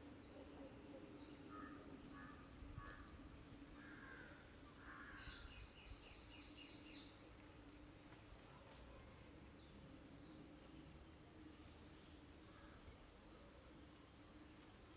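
Faint natural ambience: a steady high-pitched insect drone, with a few short bird calls about two seconds in and a quick run of repeated chirps around five seconds in.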